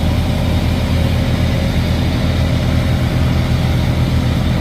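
Heavy diesel truck engine idling steadily, with a low, even hum.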